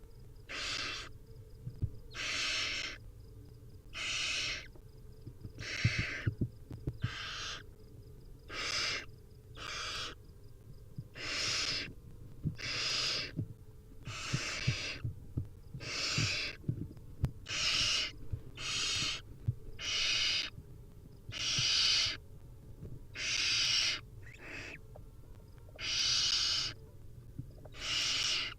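Barn owl nestlings giving their hissing begging calls: a rasping, snore-like hiss about once a second, repeated steadily. Scattered low knocks and scuffles from the nest box sound beneath the calls.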